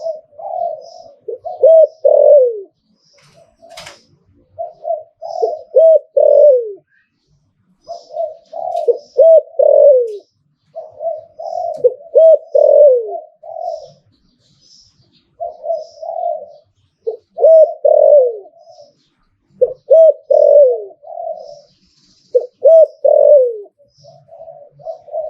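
A spotted dove cooing over and over: about nine phrases of several low, falling coo notes each, a second or so of pause between them. A sharp click sounds once about four seconds in, and faint high chirps of small birds come and go.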